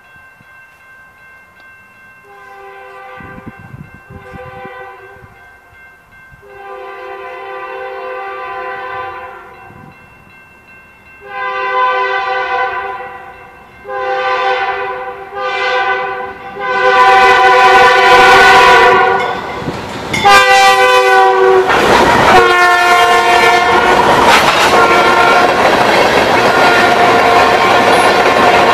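Approaching freight locomotive's air horn sounding a series of long and short blasts, louder with each blast as it nears. About 20 seconds in the locomotive passes close by, and a string of covered hopper cars rolls past with a steady rumble and wheel clatter.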